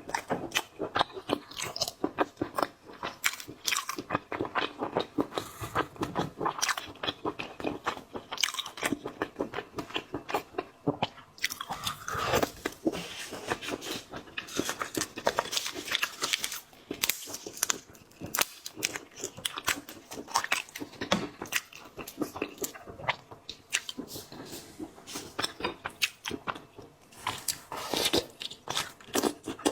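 Close-up eating sounds of shellfish: a steady stream of crisp crunching bites and wet chewing, with many short sharp cracks.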